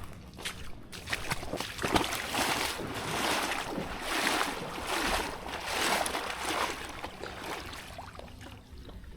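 Kayak paddle strokes through the water, a splashing swish in a steady rhythm of about one stroke a second, dying away near the end.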